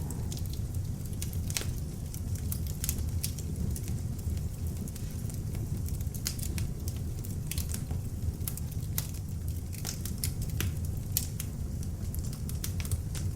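Beech-wood log fire burning in an open fireplace: a steady low rumble of the flames with frequent irregular pops and crackles.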